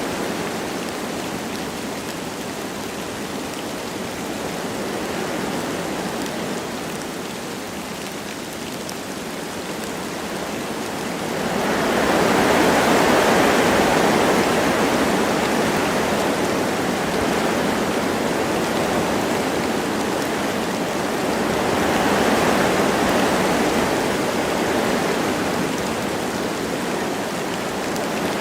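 Wind blowing through forest trees with light rain, a steady rushing that swells in a strong gust about twelve seconds in and again a little past twenty seconds.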